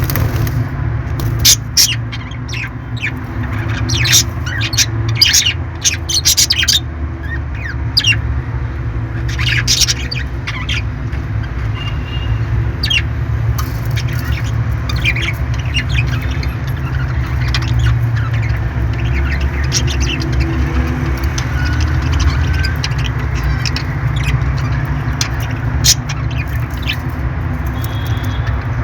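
Parrots squawking and chirping in many short, sharp calls, thickest in the first ten seconds, over a steady low hum.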